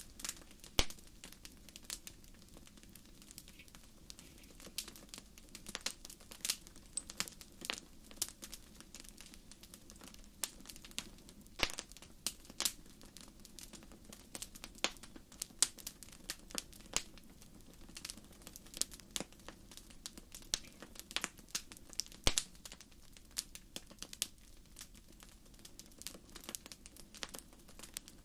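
Fireplace fire crackling: irregular sharp pops and snaps, several a second with a few louder ones, over a steady low background.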